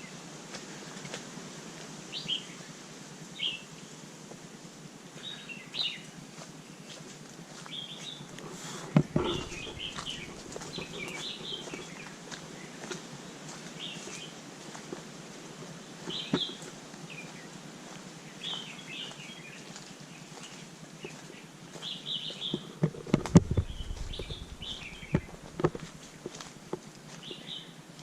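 Small birds chirping in short, repeated calls every second or two over a steady outdoor hiss, with a few sharp knocks and low thumps about a third of the way in and again near the end.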